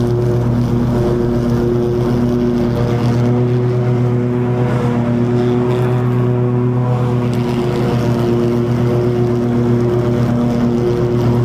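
Toro TimeCutter 50-inch zero-turn mower running steadily at cutting speed, its engine and spinning blades giving a loud, even hum while cutting long grass.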